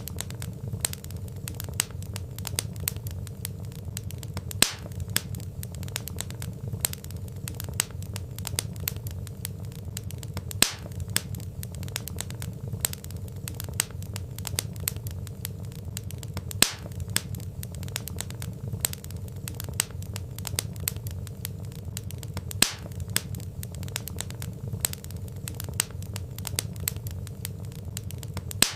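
Wood fire crackling, with a steady low rush under dense small crackles and a louder sharp pop about every six seconds.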